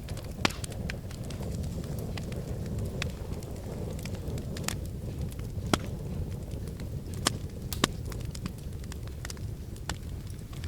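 Wood fire crackling in a fireplace: irregular snaps and pops over a steady low rumble of burning, with a few sharp louder pops, near the start and around the middle.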